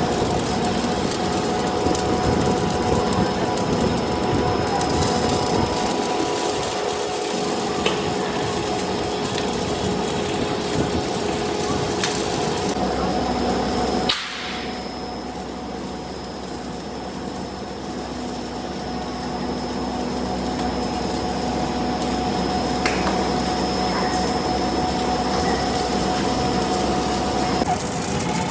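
Tyre factory machinery running: a steady mechanical din with a constant hum and whine and a few sharp knocks. About halfway through it cuts abruptly to a slightly quieter, similar machine noise.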